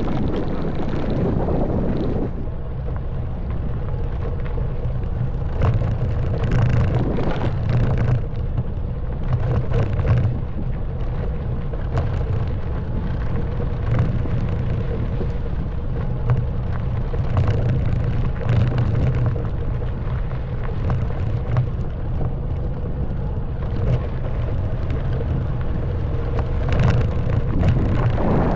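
Honda Wave 110cc single-cylinder four-stroke motorbike engine running steadily at low speed, with frequent short knocks and rattles from the bike jolting over a rough stone track.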